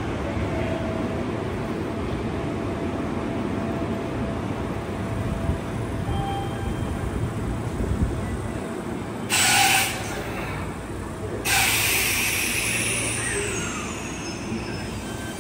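Electric commuter train at a station platform with a steady rumble, and two bursts of compressed-air hiss. The first is short and loud, about nine seconds in. The second comes a couple of seconds later and fades away slowly.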